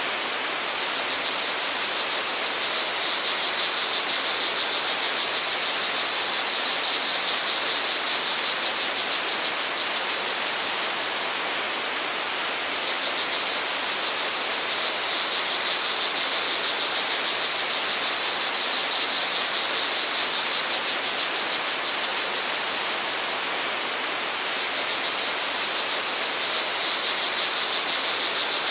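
Steady rush of flowing stream or waterfall water, with crickets chirping in fast pulsing trills over it that fade out and return twice.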